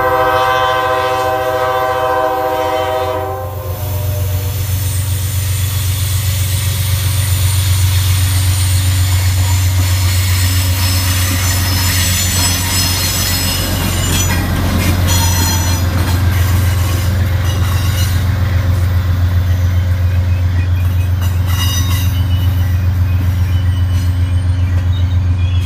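A GE P32-8WH locomotive's Hybrid K5LA air horn sounds one chord for about three seconds. Then the diesel locomotive and its passenger train pass close by, with a steady low engine drone, the rolling of the wheels and scattered rail clicks.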